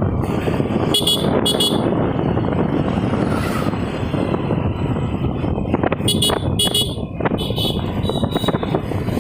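Steady wind and road noise of a moving scooter, broken by several short vehicle horn toots: a pair about a second in and more near two-thirds of the way through.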